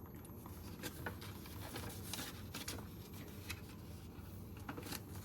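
Paper banknotes being handled and slipped into a cash envelope in a budgeting binder: soft, scattered paper rustles and light taps.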